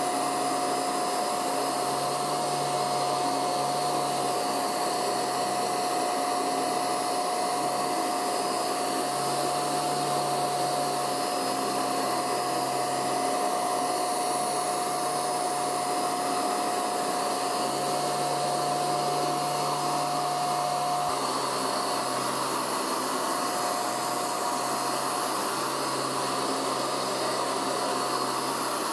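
Hoover UltraMATT MBC500UV handheld mattress vacuum cleaner running steadily, its motor giving a constant whine over the rush of suction.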